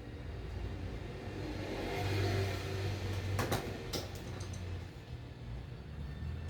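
A motor vehicle's engine running, swelling louder about two seconds in, with a few sharp clicks a little past the middle.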